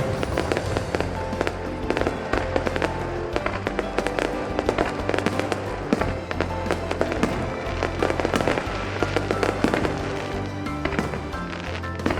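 Aerial fireworks going off in quick succession, with many sharp bangs and crackles, over music with long held notes.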